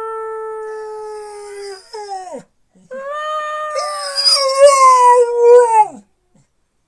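Dog howling in two long drawn-out notes, the second higher and louder than the first, each dropping in pitch as it ends: a vocal reply when spoken to.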